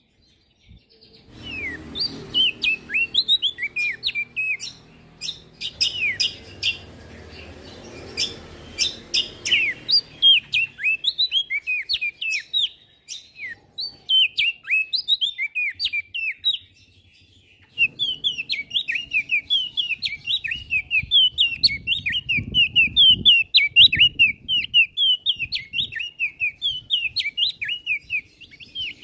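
Prenjak daun songbird singing a fast, unbroken string of short, sharp, downward-slurred chirps, several a second. The song starts after a brief silence and thins out for a few seconds around the middle.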